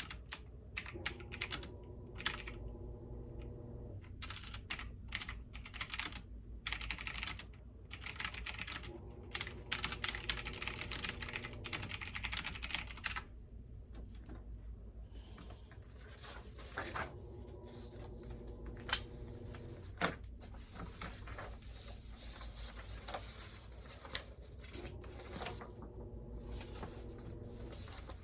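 Computer keyboard typing in quick bursts for roughly the first half, then slower, scattered keystrokes with a few louder single taps, over a steady low hum.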